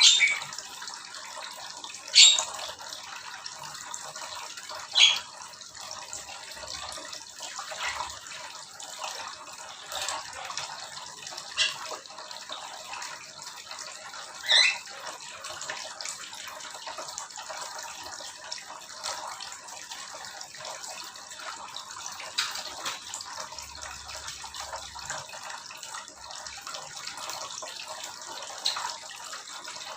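Small aviary birds giving short, sharp, loud calls every few seconds over a steady water-like hiss.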